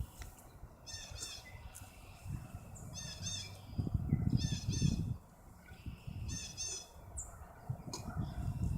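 A bird calling in four short runs of quick, harsh repeated notes, over a low rumbling noise that swells about halfway through.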